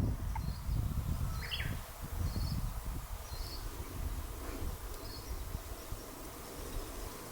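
A short, high chirp repeats about once a second, with a brief lower call about a second and a half in. A low wind rumble on the microphone runs underneath.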